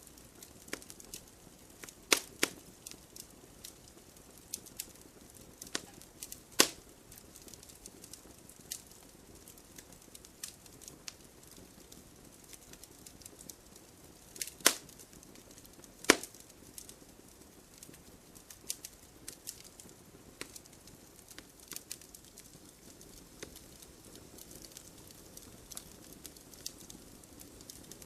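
Campfire burning with a soft steady hiss and scattered sharp crackles and pops of the wood, irregularly spaced, a few much louder snaps among them.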